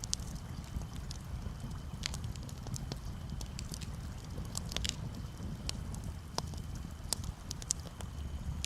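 Campfire crackling, with irregular sharp pops and snaps scattered through, over a steady low rumble of gentle waves.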